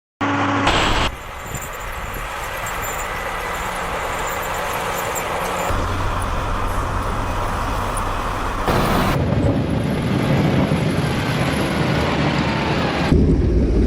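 Vehicle engine and road noise, with steady low engine hum under a wide rush of noise. The sound changes abruptly several times, at about 1, 6, 9 and 13 seconds in, as different clips cut in.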